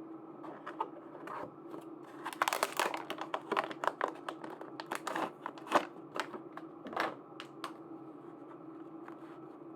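Plastic packaging being handled and opened: a run of crinkling rustles and sharp clicks starting about two seconds in and ending near eight seconds, over a steady low hum.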